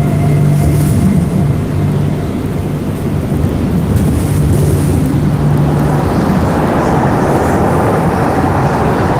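A heavy, noisy rumble over a steady low drone, growing denser and reaching higher from about six seconds in.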